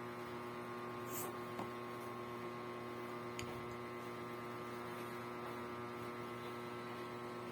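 Steady electrical hum made of several constant tones, with a couple of faint ticks about a second in and midway.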